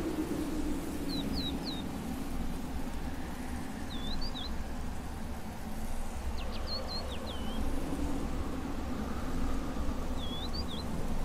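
A small bird calling in short high chirping phrases, four of them a few seconds apart, over a steady low background rumble.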